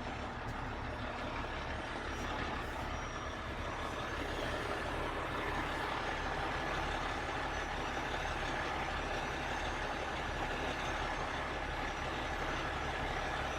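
Heavy rotator wrecker's diesel engine running steadily at raised working speed to drive the hydraulic boom during a heavy lift. A faint wavering high whine rides over it, and the sound grows slightly louder about five seconds in.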